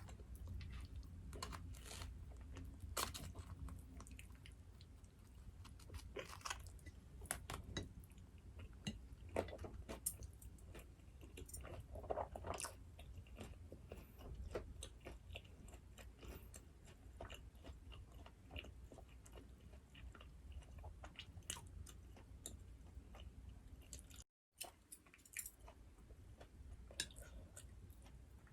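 Close-miked eating of black bean noodles and fried dumplings: chewing and biting with irregular crisp clicks and crunches. The sound cuts out completely for a moment about three-quarters of the way through.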